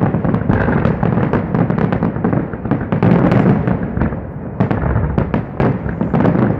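A fireworks display's aerial shells bursting in rapid, overlapping succession: sharp bangs and crackles several times a second over a continuous low rumble of booms.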